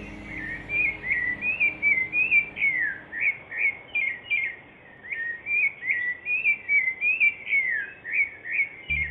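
A songbird chirping in a fast, continuous run of short, sharp notes, some sliding down in pitch, about two or three a second. Soft sustained music tones fade out about a second in.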